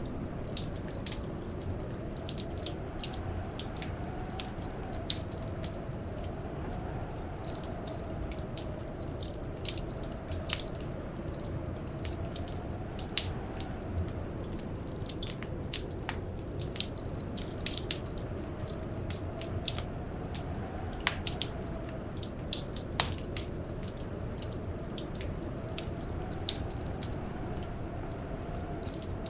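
Wood fire crackling in a fireplace: irregular sharp pops and snaps, several a second, over a steady low rush.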